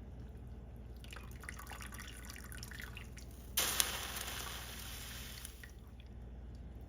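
Liquid dripping and splashing, with a sudden louder rush about three and a half seconds in that fades away over about two seconds.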